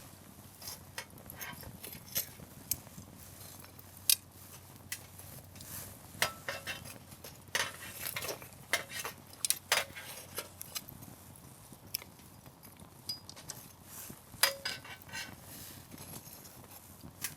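Firewood burning in a campfire, crackling with irregular sharp pops and snaps that come thickest about halfway through.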